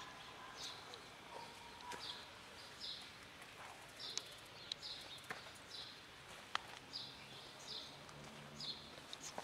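A small bird chirping repeatedly, short high chirps coming about one or two a second, with a few sharp clicks among them.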